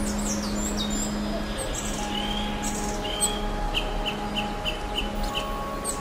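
Several wild birds singing and chirping in a forest, with overlapping high chirps and a run of about six quick repeated notes in the second half.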